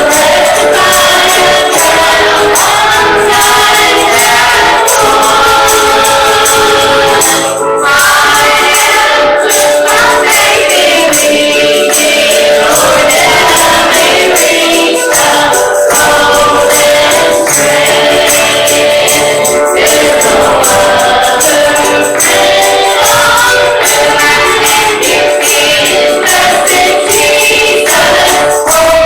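Gospel music with a choir or congregation singing and a tambourine shaken steadily to the beat.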